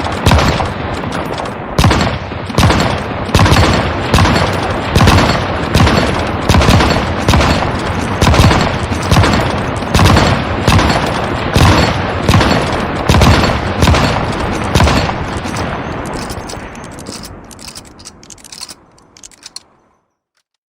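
Gunfire sound effect of a surprise attack: a sustained volley of shots, about two a second, over a constant crackle of firing. It thins out and fades over the last few seconds before stopping.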